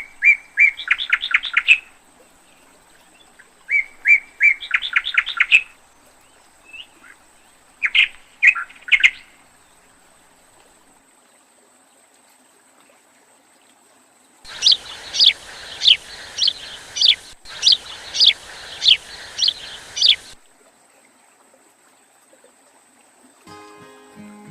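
Birds calling: three short phrases of rapid repeated chirps in the first nine seconds. After a pause there is a run of sharp descending notes, about two a second, for some six seconds.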